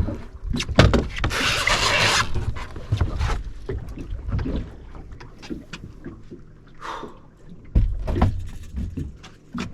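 Knocks and handling noises aboard a small fishing boat, with a hissing rush of noise lasting about a second, starting about a second in, over wind on the microphone.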